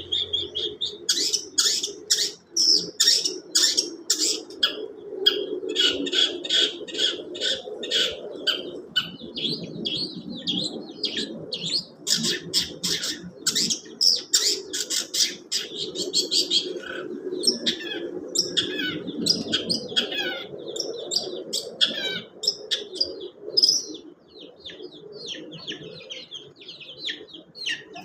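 A songbird singing a long, rapid, varied song of quick chirps, twitters and short trills, in bouts with brief pauses, over a steady low background rumble.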